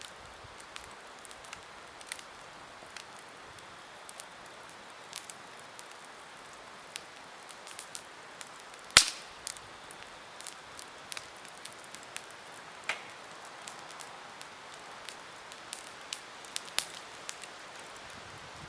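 Wood campfire crackling: irregular sharp pops and snaps over a soft steady hiss, with one loud pop about halfway through.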